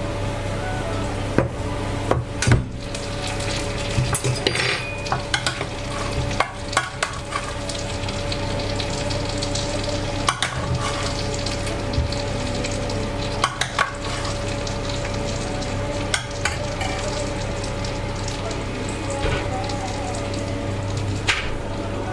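Hot roasting tray sizzling as potatoes are turned in it, with scattered sharp clinks and scrapes of a utensil against the pan, over a steady hum.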